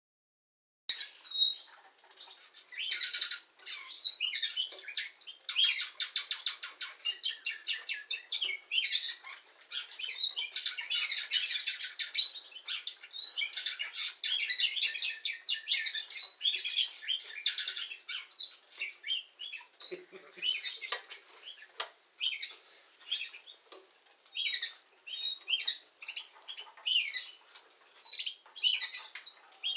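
Canary singing a nightingale-style song: rapid trills and rolls that start about a second in, turning to shorter, broken chirping phrases after about twenty seconds.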